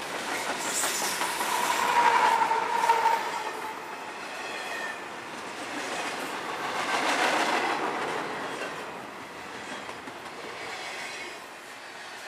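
CSX double-stack intermodal freight train rolling past at speed: wheels clattering over the rails under the container well cars, swelling and easing as the cars go by. A steady high tone sounds over the first three seconds.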